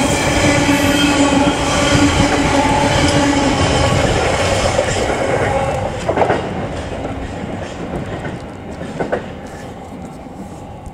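Freight train passing with a steady rumbling hum that fades after about five seconds. Two sharp clanks follow as the sound dies away.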